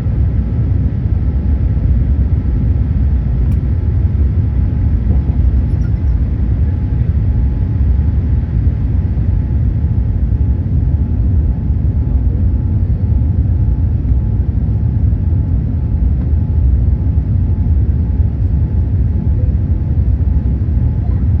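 Cabin noise of a Boeing 787-8 in its initial climb after takeoff, heard inside the rear cabin: a steady, deep rumble of its Rolls-Royce Trent 1000 engines at climb thrust and of the airflow past the fuselage, with faint steady tones above it.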